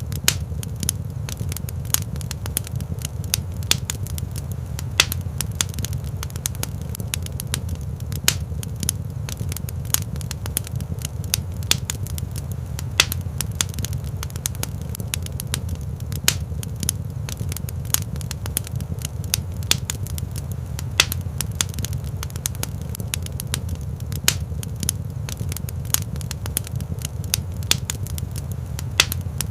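Wood fire burning in a rock fireplace: a steady low rumble of flames with irregular sharp crackles and pops, several a second.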